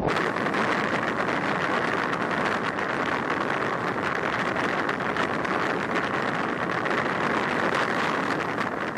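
Steady road and wind noise of a moving vehicle, picked up by a dashcam's microphone.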